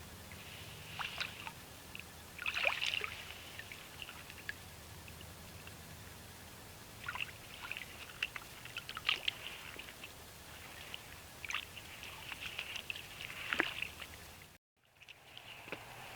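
North American beaver moving branches at the water's edge: irregular small splashes and sloshes of water with light crackles of wood, in short scattered bursts. The sound cuts out briefly near the end.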